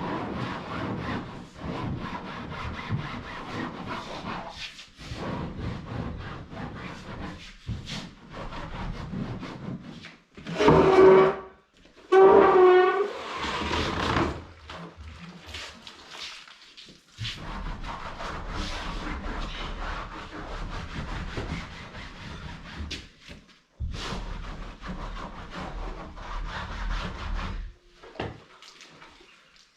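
Damp cloth wiping and rubbing chairs by hand in steady scrubbing strokes, with two loud pitched squeals about eleven and twelve seconds in.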